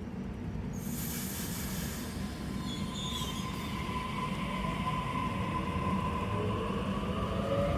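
Passenger train running through a station with a steady rumble of wheels on rails. A high wheel squeal holds through the middle, and shifting whining tones come in near the end.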